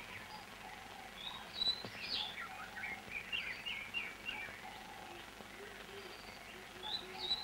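Faint birdsong: many short, quick chirps and sweeping calls.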